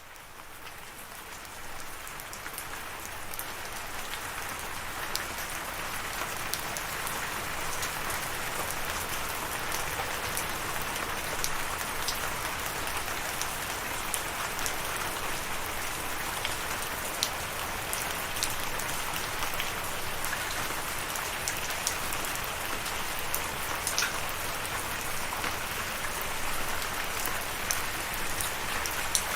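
Steady rain falling, a dense hiss with many distinct drops ticking through it. It fades up from silence over the first few seconds.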